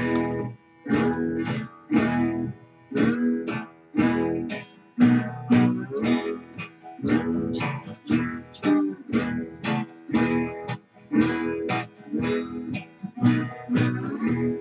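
Acoustic guitar strummed in a steady rhythm, chords repeating evenly as the introduction before the singing comes in.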